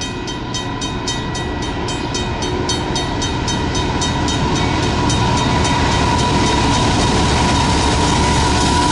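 Level-crossing warning bell ringing rapidly, about three to four strokes a second, as a diesel freight locomotive approaches; the locomotive's engine rumble and rail noise swell steadily and gradually drown out the bell.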